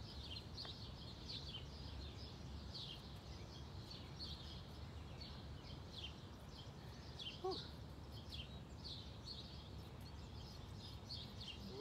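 Small birds chirping over and over, short high chirps a few times a second, over a faint, steady low rumble.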